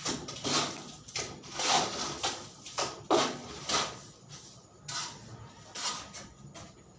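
Repeated scraping strokes, roughly two a second, growing weaker near the end.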